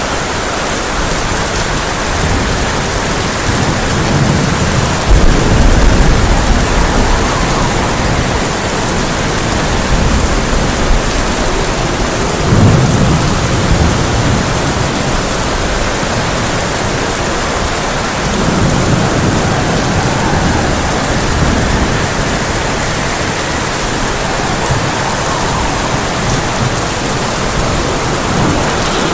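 Heavy rain drumming steadily on a tin roof, with thunder rumbling three times: a loud roll about five seconds in, another around thirteen seconds, and a fainter one near twenty seconds.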